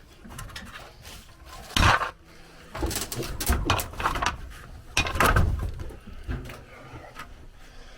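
Close handling noise from a camera being set down and moved: a sharp knock about two seconds in, then two stretches of scraping and rustling.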